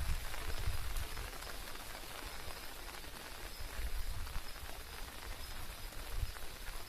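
Steady rain falling, an even hiss of drops, with scattered low rumbles underneath.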